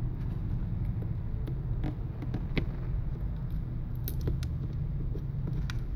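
Scattered small clicks and taps from handling the iPad mini's screen and chassis while it is being seated, over a steady low rumble.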